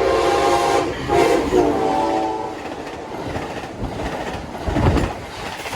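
Amtrak Pacific Surfliner train's air horn sounding as it passes at about 90 mph. The horn cuts out about a second in and sounds again at a lower pitch for about a second, then gives way to the steady rush and rumble of the cars going by, with a few low thumps near the end.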